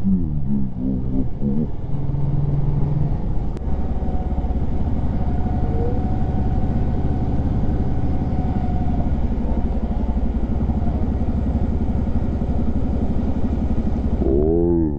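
Bajaj Pulsar NS200's single-cylinder engine on its stock exhaust: a few throttle blips rising and falling in pitch at the start, then running at a steady speed, with more blips near the end.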